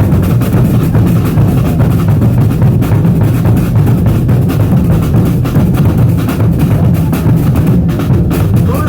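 Loud, percussion-driven band music with drums and bass drum keeping a steady beat.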